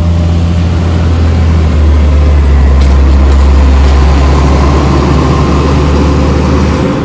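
A motor vehicle's engine running steadily at idle, a loud low drone with a hiss over it.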